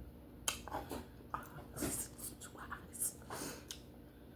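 Close-up mouth sounds of someone chewing baked duck head: irregular smacks and clicks, a few a second.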